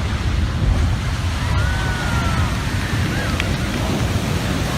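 Steady, loud rush of wind and surging water, with wind buffeting the microphone as a heavy low rumble.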